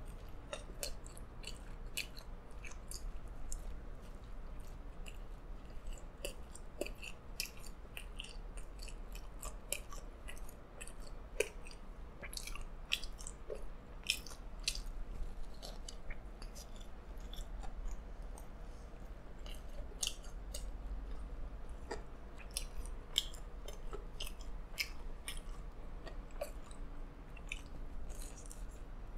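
A person biting and chewing a slice of smoked-salmon pizza, with frequent small irregular mouth clicks.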